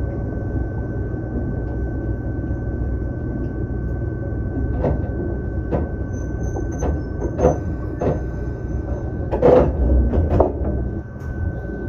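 Ohmi Railway Taga Line electric train heard from the cab, rolling slowly into Takamiya station and coming to a stop: a steady low running rumble with a constant high tone, and a few sharp clicks and knocks in the second half.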